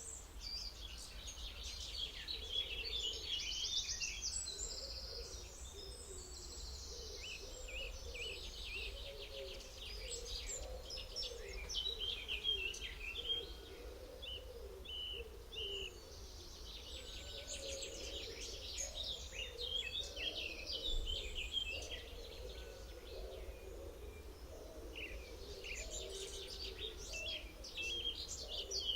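A chorus of several songbirds, with overlapping chirps and trills throughout, over a steady low background rumble.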